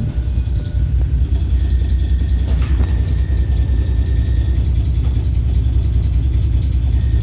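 E1-class tram running with a heavy, steady low rumble and a thin high whine above it: the abnormal vibration this tram shouldn't be making.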